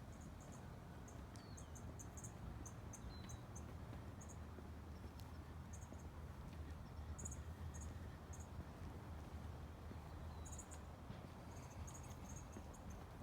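Faint outdoor ambience: short high-pitched chirps repeating in small clusters over a steady low rumble, with a few brief falling chirps now and then.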